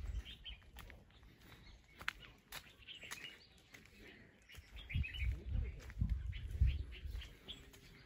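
Small birds chirping in short calls, with a few light clicks. About five to seven seconds in, loud low rumbling thumps close to the microphone.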